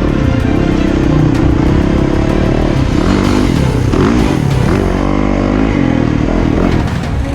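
Dirt bike engine running hard, its revs rising and falling repeatedly through the second half.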